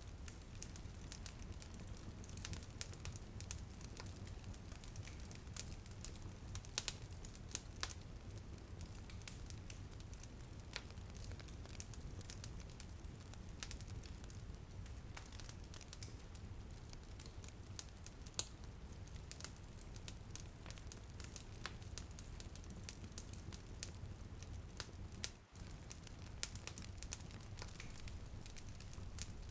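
Wood fire crackling in a fireplace: irregular sharp pops and snaps over a steady low rumble, with a brief drop in the sound about 25 seconds in.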